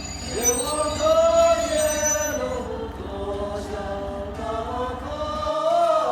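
Steam locomotive whistle, Alishan No. 31, blown in a long chime of several tones together. Its pitch slides up as it opens about half a second in, sags in the middle and swells again near the end.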